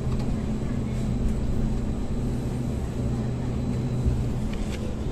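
Light rail vehicle running inside the car as it pulls into its terminal station: a steady low hum over running noise, with the lowest tone stopping about four and a half seconds in.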